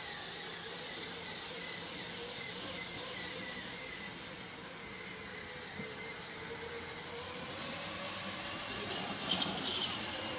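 A motor vehicle's engine running steadily, with a faint steady hum. A short, sharper high sound comes near the end.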